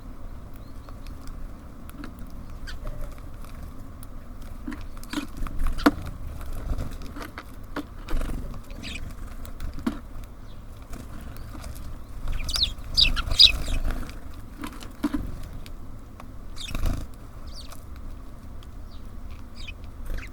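Birds at a feeder: scattered pecking taps, knocks and wing flutters, with a few short high chirps, most of them just past the middle.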